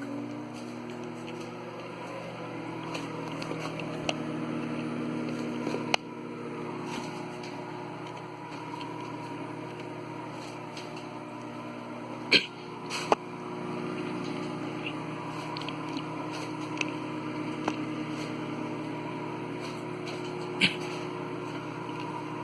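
Microwave oven running, a steady hum, with a few sharp clicks along the way.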